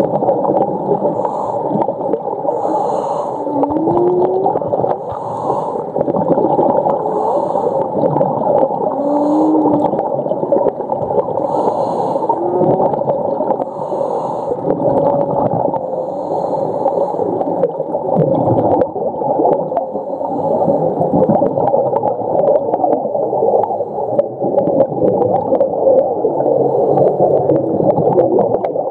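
Humpback whale song heard underwater: a dense, continuous chorus of moans and whines, with a few short rising moans in the first half.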